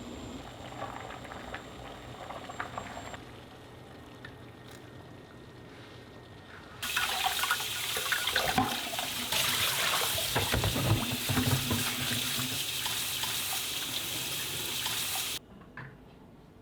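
A kitchen tap runs into the sink for about eight seconds, turned on and shut off abruptly. Before it there is a light clatter of dishes.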